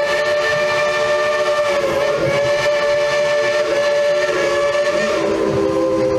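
Steam whistle of Cinderella, Baldwin-built Mikado-type steam locomotive No. 70, blowing one long, steady blast of several tones sounding together as a chord.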